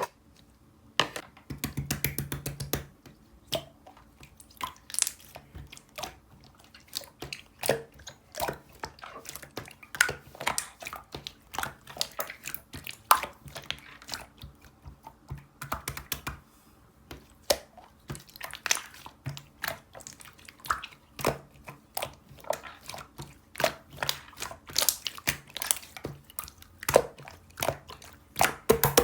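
Close-miked crisp clicks and crunches at irregular intervals, with a short run of rapid crackling about two seconds in and again at the end.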